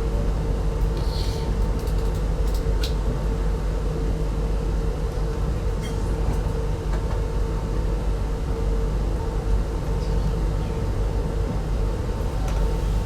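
Steady running rumble of an RZ25T passenger coach rolling along the track, heard from inside the coach, with a constant low hum and a few light clicks.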